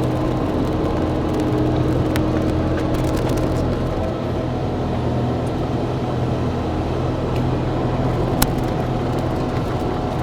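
Excavator's diesel engine running steadily under work, with a couple of sharp clicks.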